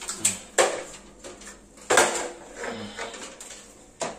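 Hammer driving nails into wood: three hard blows about a second and a half apart, with lighter knocks between them.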